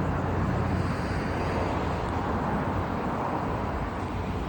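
Steady low rumble of vehicle engines and traffic, with no distinct single event.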